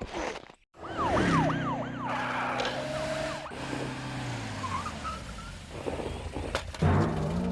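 Cartoon emergency-vehicle sound effects: an engine running with its pitch slowly sinking, and a siren giving a few quick wails about a second in.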